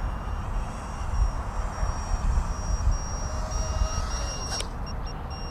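Low-battery alarm beeper of an FPV racing quad sounding a rapid, steady string of short high beeps, the sign that its 4S LiPo is drained, over a low rumble of wind on the microphone. A brief click comes near the end.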